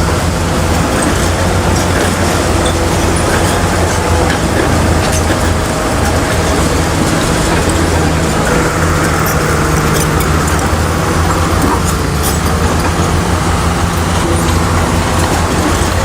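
Heavy diesel engine of an earthmoving machine running steadily under work, with scattered metallic clicks and clanks over it.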